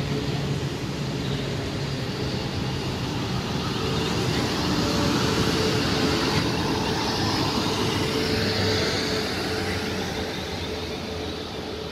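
South Western Railway Siemens Desiro electric multiple unit, several units coupled, running past along the platform: a steady rumble of wheels on rail with a steady hum, easing a little near the end.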